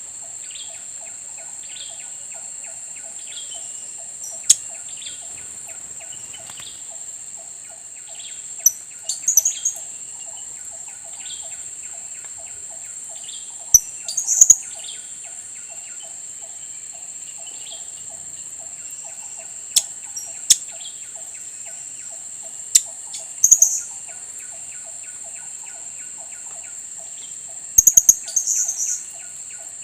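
Blue-crowned hanging parrots (serindit) giving short, sharp, high-pitched calls, singly or in quick clusters, every few seconds. Beneath them runs a steady high insect drone and a fast, even pulsing.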